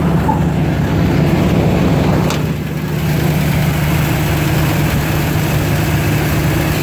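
1974 Chevrolet K10 pickup's engine idling steadily while it warms up after a cold start, with one short click a little over two seconds in.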